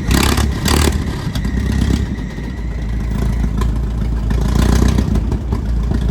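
Car engine running with a deep rumble, its revs rising and falling.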